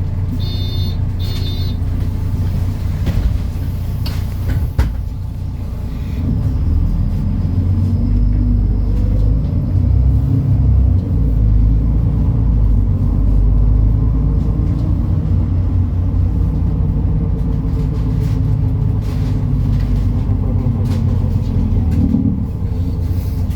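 MAN Lion's City NL293 city bus with its diesel engine running. Two short electronic beeps sound about a second in and a knock near five seconds, then the engine pulls away, rising in pitch for a few seconds before running steadily.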